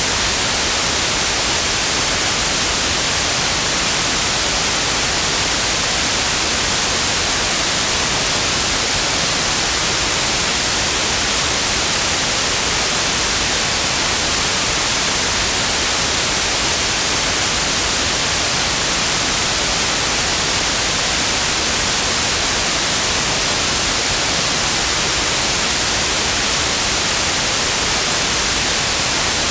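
Steady electronically generated white noise: an even, unchanging hiss, brightest in the highest frequencies, with no change in level.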